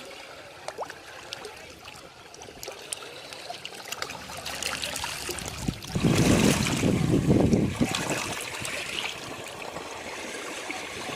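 Ocean waves at the shore: a quieter hiss of water trickling and crackling, then a wave washes in loudly about six seconds in and slowly subsides.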